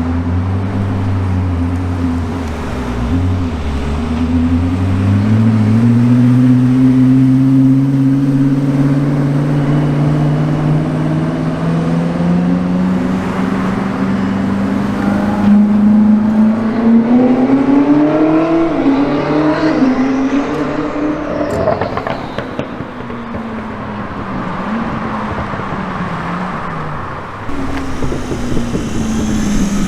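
Koenigsegg Jesko Attack's twin-turbo V8 in a long pull, its engine note rising steadily in pitch for about fifteen seconds, then falling back as it eases off; the sound changes abruptly near the end.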